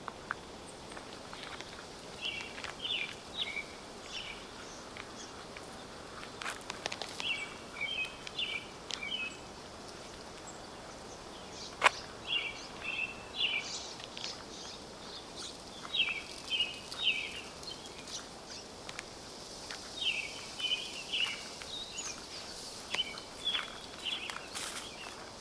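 A songbird singing the same short phrase over and over, every few seconds, over a faint outdoor hush. A single sharp snap about halfway through is the loudest sound.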